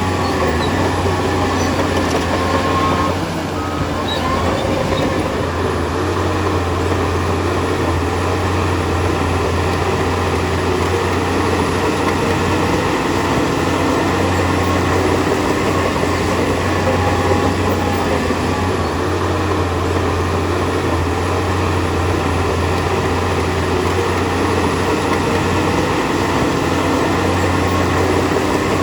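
Heavy diesel earthmoving machinery running steadily under load, a continuous low engine drone with a short dip about three seconds in.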